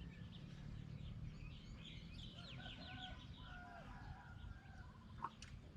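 Birds chirping and calling faintly, a cluster of short rising and falling chirps in the middle, over a low steady rumble, with one sharp click about five seconds in.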